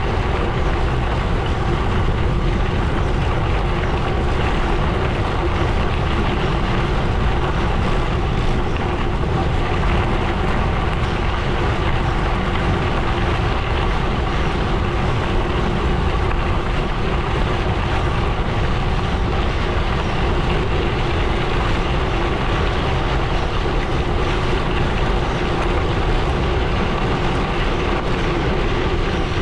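Gravel bike rolling steadily along a gravel road: the continuous crunching rumble of the tyres on loose gravel.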